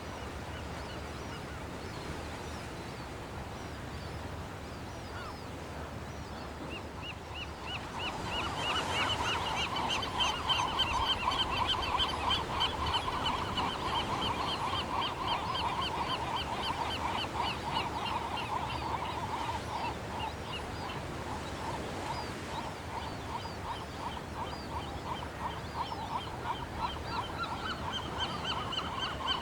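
A chorus of rapid, repeated high-pitched animal calls starts about seven seconds in, over a steady low hiss, and carries on to the end.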